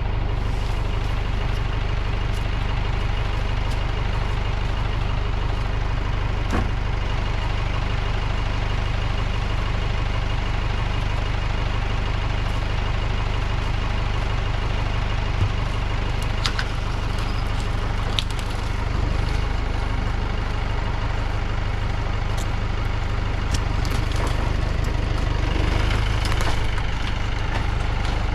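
Tractor engine running steadily, with a few sharp knocks and clatters over it.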